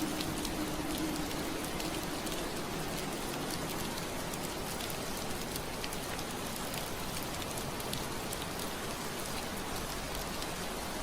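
Steady rain pattering on window glass, with scattered sharp drop taps through a soft even hiss. A low hum fades out over the first two seconds or so.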